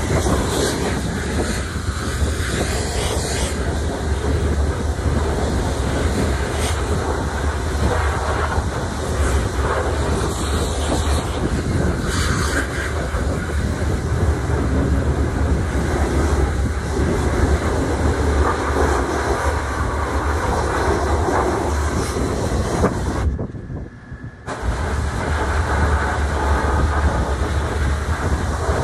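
Loud steady rumbling noise with a low hum underneath, briefly cutting out for about a second near the end.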